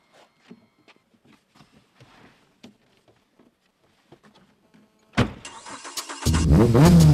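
Faint clicks and rustles of someone moving inside a car. About five seconds in, a car engine starts with a sudden loud burst. A second later, loud music with a heavy bass comes in.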